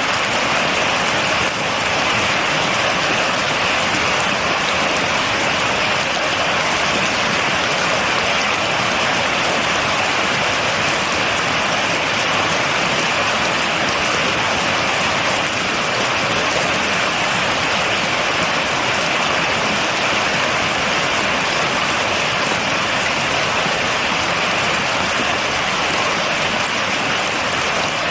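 Steady heavy rain falling, a dense unbroken hiss with a fine patter of drops, with no thunder.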